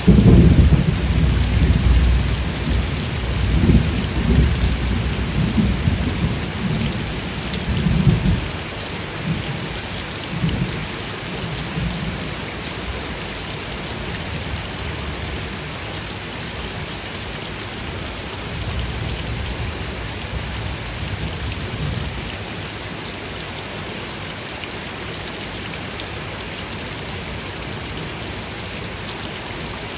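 Steady rain with thunder rumbling. A loud roll at the start fades away over about eight seconds, and fainter rumbles follow about ten and twenty seconds in.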